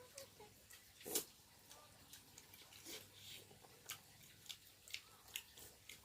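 Near silence with faint, scattered small clicks and ticks, and one sharper click about a second in.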